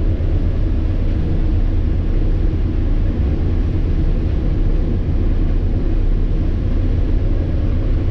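Fendt IDEAL 7 combine harvester running while harvesting wheat, heard from inside the cab. It is a steady low drone of the engine and threshing machinery.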